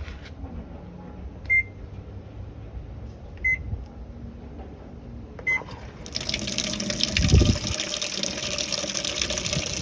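Three short electronic beeps, two seconds apart; then, about six seconds in, water starts running steadily, as from a tap, with a low thump shortly after.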